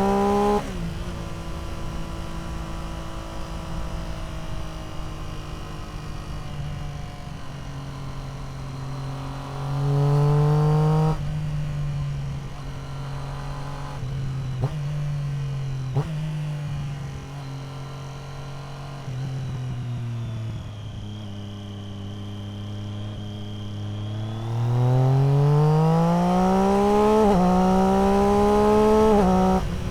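Triumph Street Triple R's inline three-cylinder engine running through an Arrow aftermarket exhaust under way. It pulls briefly at the start and again around ten seconds in, holds steady at part throttle in between with two short sharp cracks midway, then pulls hard in the last few seconds with one upshift.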